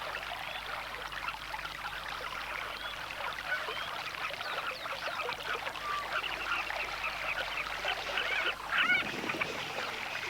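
Riverside ambience: water trickling steadily, with many small bird calls and chirps throughout, and a slightly louder spell of calls a little before the end.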